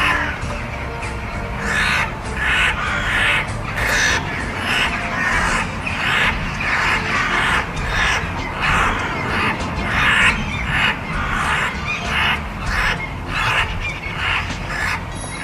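Crows cawing over and over, harsh calls coming about two a second, as in a squabble between birds.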